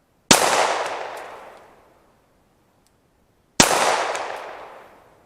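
Two 9mm pistol shots from a Glock 19 firing 115-grain full metal jacket rounds, about three seconds apart, each a sharp crack followed by a long fading echo.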